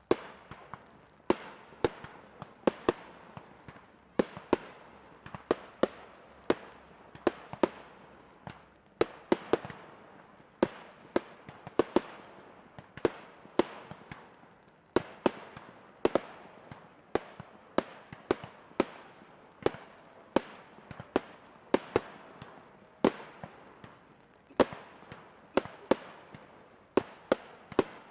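Aerial firework shells going off in a steady barrage: sharp bangs about one or two a second, each trailing off in an echo.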